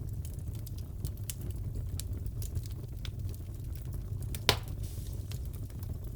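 Wood fire crackling in a fireplace: scattered small snaps over a steady low rumble, with one loud pop about four and a half seconds in.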